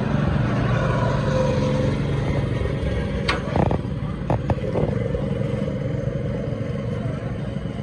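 Small go-kart engines running as karts drive around a track, the engine pitch shifting, with a few sharp clacks about three to five seconds in.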